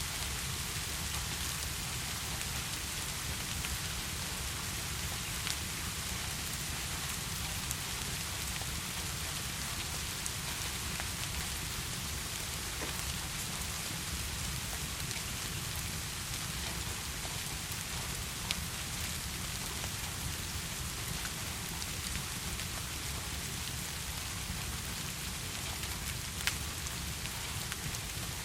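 Steady heavy rain falling, an even hiss with no change in level, with a few sharp ticks scattered through it.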